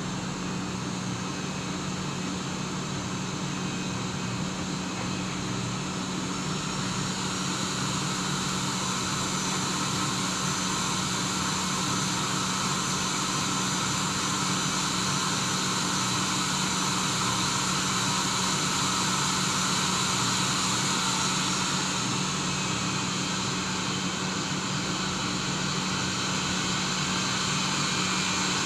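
Boeing 737-800's CFM56 turbofan engines during a landing, a continuous noise with a steady low hum and a high whine, growing slightly louder.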